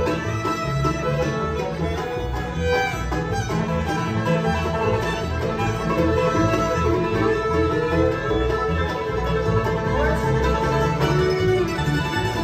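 Live bluegrass band playing an instrumental tune, banjo to the fore, over a steady, rhythmic bass line.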